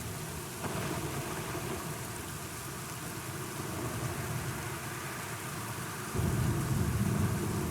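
Steady rain falling, with a low rumble of thunder that swells up suddenly about six seconds in and keeps rolling.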